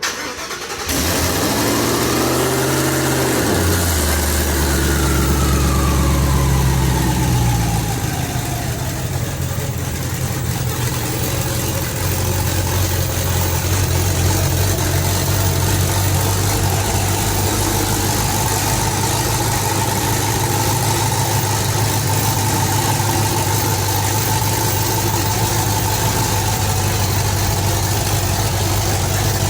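Twin-turbocharged Ford Coyote V8 starting for the first time: it catches about a second in, its speed rises over the next few seconds and falls back, and it settles into a steady idle. A faint steady whine joins the idle later on.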